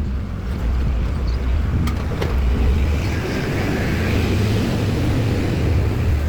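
Steady low rumble of passing vehicles, with two faint clicks about two seconds in.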